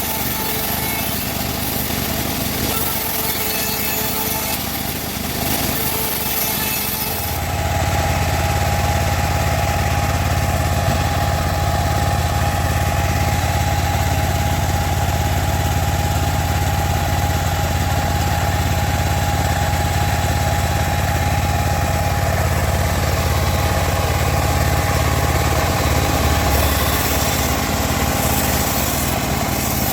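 Wood-cutting band saw machinery: for the first seven seconds or so, uneven hissing sawing noise. Then the machine settles into a steady loud hum with a high whine.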